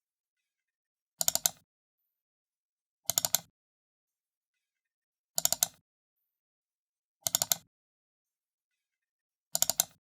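Computer mouse button double-clicked five times, about two seconds apart. Each double-click is a quick cluster of sharp plastic clicks, with silence between.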